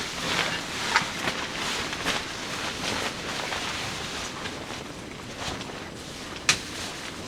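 Wood fire crackling and hissing, with occasional sharp pops, the loudest about a second in and again near the end.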